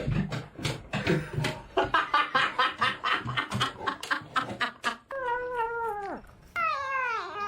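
A cat meowing: two long meows that fall in pitch in the last two seconds or so, after about five seconds of quick, short, rhythmic sounds.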